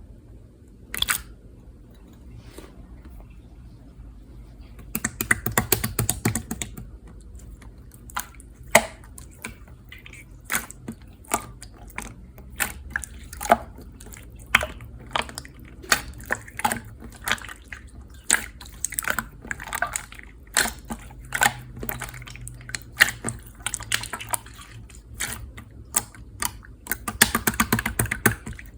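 Clear slime being squeezed and poked by hand, making irregular wet clicks and pops, with a run of rapid crackling about five seconds in and again near the end.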